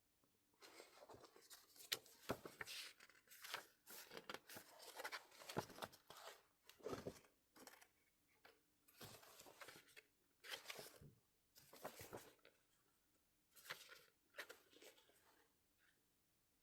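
An album's packaging being unwrapped and handled: a faint string of short rustling, crinkling and tearing noises with a few sharp clicks, in irregular spurts.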